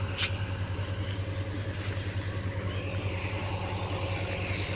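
A vehicle engine running steadily: a low, even drone with a fast, regular pulse and one brief click just after the start.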